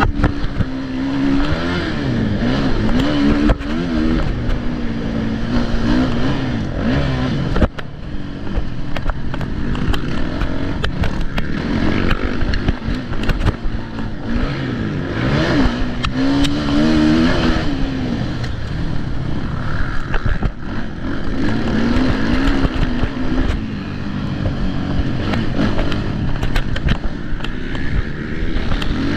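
Motocross dirt bike engines revving hard, the pitch climbing and dropping again and again throughout.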